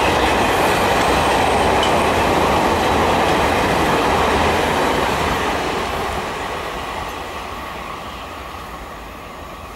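An Indian Railways passenger train rolling past at speed, with the noise of its wheels on the rails. The noise stays level for about four and a half seconds, then fades steadily as the train draws away.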